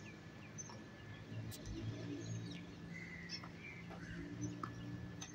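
Scattered short bird chirps over a low, steady background hum.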